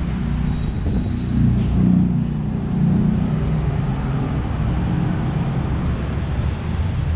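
Steady low rumble of road traffic, with no distinct single event standing out.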